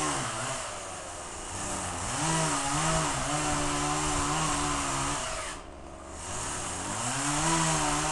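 Gas chainsaw running with the throttle worked up and down. It holds high revs for a couple of seconds, drops almost to idle about two-thirds of the way through, then revs up again.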